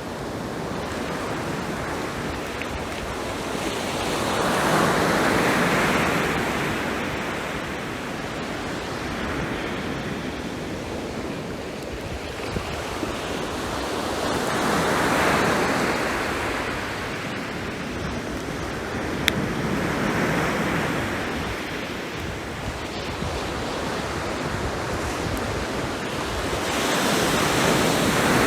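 Sea waves breaking and washing up the shore in slow surges every several seconds. There is a single sharp crackle from the driftwood fire about two-thirds of the way through.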